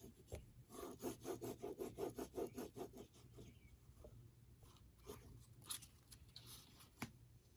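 Quick back-and-forth rubbing strokes on paper, about four or five a second for a couple of seconds, then a few light scrapes and a single sharp click near the end.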